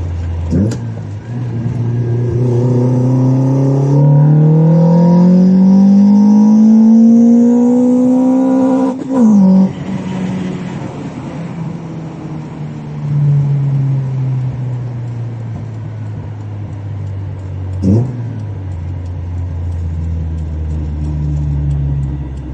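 Toyota 20-valve four-cylinder (4A-GE 20V) engine pulling hard under acceleration, rising steadily in pitch for about eight seconds. About nine seconds in its pitch falls sharply with a short loud burst, and it then runs on more evenly with gentle rises and falls.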